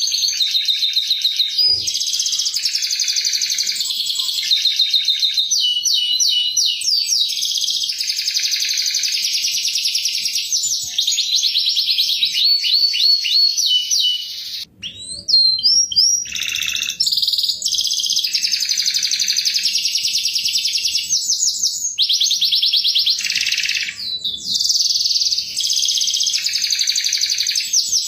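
Domestic canary singing a long, continuous song of rapid trills and chirps, with a short break about halfway through.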